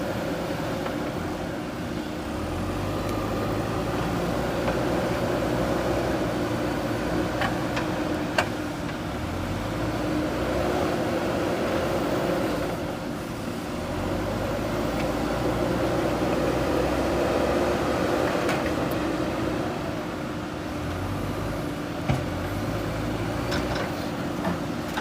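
JCB backhoe loader's diesel engine running under load, its note rising and falling in long waves as the machine works. A few sharp knocks stand out, about 8 and 22 seconds in and at the very end.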